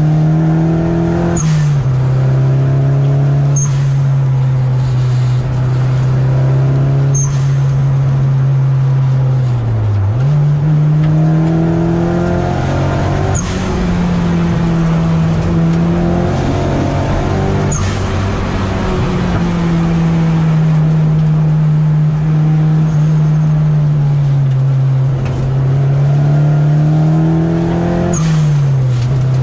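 Nissan 200SX's turbocharged four-cylinder engine heard from inside the stripped, caged cabin while driving hard. Its note climbs under throttle and drops sharply at gear changes, several times.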